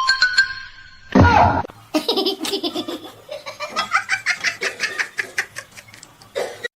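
A person laughing in a long run of quick, rhythmic bursts, after a short loud burst of sound about a second in.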